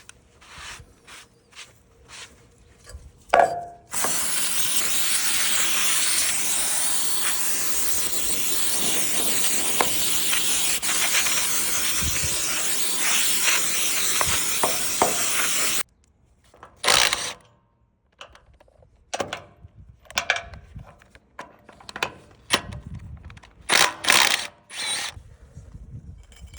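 A loud, steady hiss starts about four seconds in and cuts off suddenly some twelve seconds later, followed by scattered clicks and knocks.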